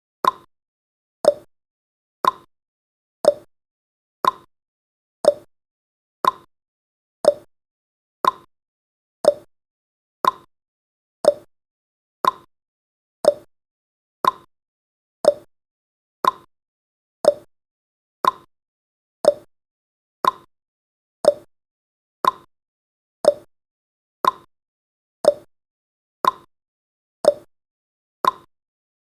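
Countdown timer's ticking sound effect: one short, sharp tick every second, steady and evenly spaced.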